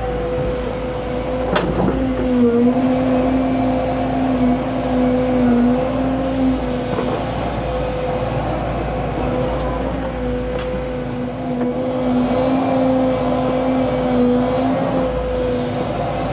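Diesel earthmoving machine running steadily, its engine holding a constant whine with only slight dips in pitch, and a couple of faint knocks.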